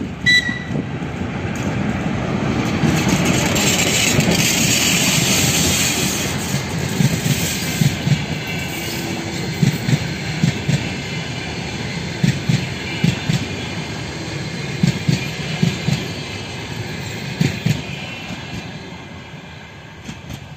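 TEP70 diesel passenger locomotive with a passenger train passing at speed. The diesel engine's noise swells over the first few seconds as the locomotive goes by, then the coach wheels clack over the rail joints in regular groups of sharp beats, fading near the end. A brief high tone sounds right at the start.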